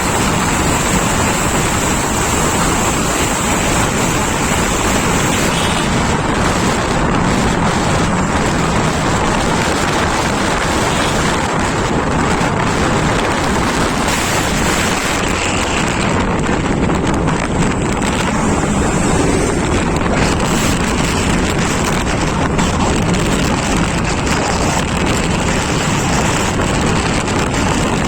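Loud, steady wind rush on the microphone over the running noise of a moving vehicle, with no let-up.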